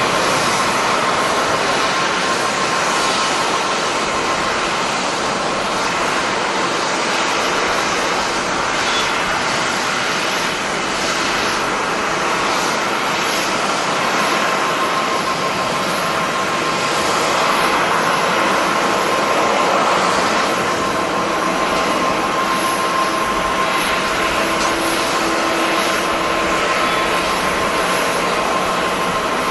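Jet airliner engines running, heard as a steady rush of jet noise with a thin, steady whine over it, swelling a little past the middle.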